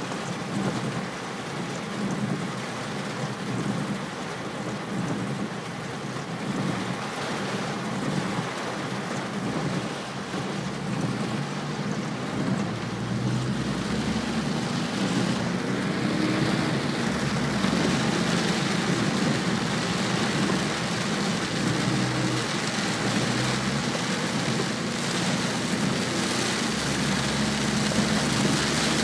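Heavy typhoon rain beating on a car's roof and windscreen, heard from inside the cabin, over the low hum of the car driving on the wet road. It grows louder a little past halfway.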